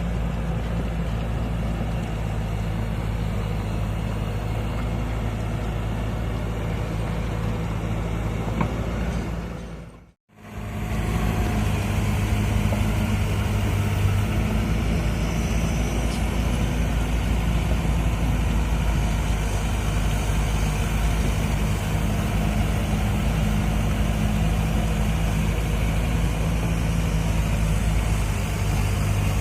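Kobelco SK200 hydraulic excavator's diesel engine running steadily while digging soil. The sound fades out briefly about ten seconds in, then comes back.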